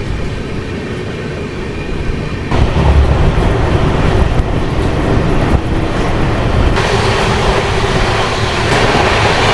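Jan Shatabdi Express coach rolling along the track, heard from inside the coach as a steady train noise that grows louder about two and a half seconds in.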